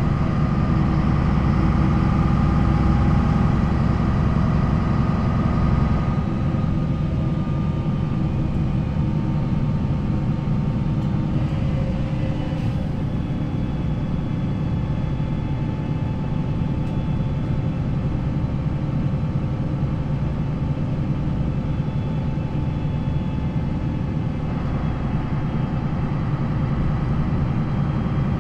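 MAN NL 263 city bus's D28 diesel engine with ZF Ecomat automatic gearbox running under load, then easing to a lower, steadier note about six seconds in. It picks up a little again near the end.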